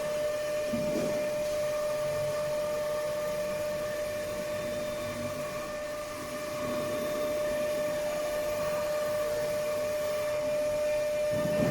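CNC router spindle running with a steady high whine, with rougher cutting noise swelling and fading as it works.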